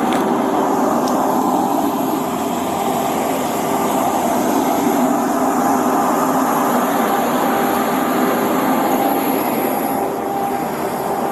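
Burning car fire giving off a loud, steady rushing noise.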